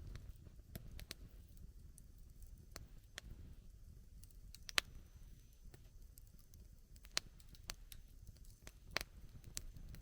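Wood campfire crackling: irregular sharp pops over a low, steady rumble, the loudest pops about five seconds in and near the end.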